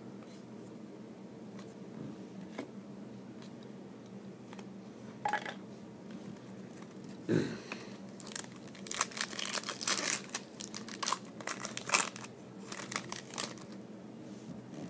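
Trading-card packaging crinkling and tearing as it is handled: a few faint clicks at first, then dense crackling through the second half.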